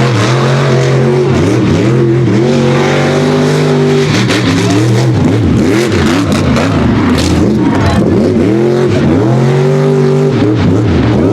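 Unlimited-class mega truck's engine under hard throttle on the race course. It holds high revs for the first few seconds, drops, revs up and down several times in quick swoops, holds high again and then falls near the end.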